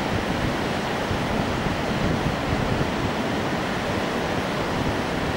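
Steady rush of fast river water running through rapids, an even, unbroken noise with no separate splashes.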